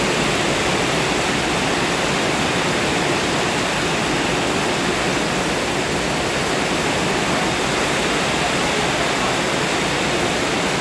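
Heavy rain pouring down in a windy storm: a steady, dense hiss.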